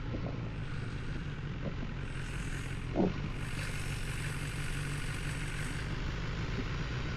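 Car engine and road noise as a steady low drone, with one short knock about three seconds in.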